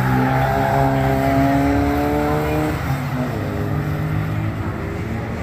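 Classic Mini A-series four-cylinder engines running as the cars drive past on the track. The engine note climbs steadily, drops about three seconds in, then climbs again.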